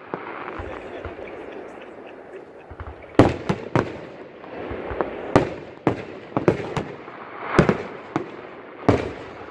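Aerial fireworks shells bursting in a string of sharp bangs, starting about three seconds in, several coming in quick pairs.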